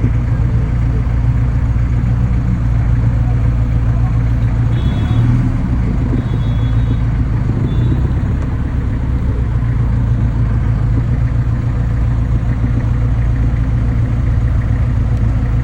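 Steady low rumble of a motor vehicle running, a constant engine and road drone with no change in pitch. A few faint, short high tones sound about five to eight seconds in.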